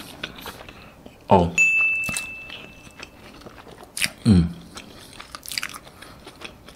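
Close-miked chewing of a mouthful of sourdough toast topped with omelette, with small wet mouth clicks and crunches. Twice, about a second in and about four seconds in, a hummed "mmm" that falls in pitch.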